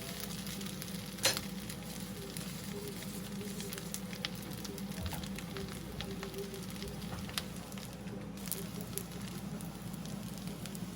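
Food sizzling as it fries in a pan, with scattered small crackles and one sharper click about a second in.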